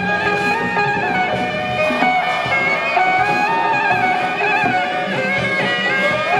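Traditional Taiwanese temple music: reedy wind instruments playing a held, gliding melody over a steady low drone.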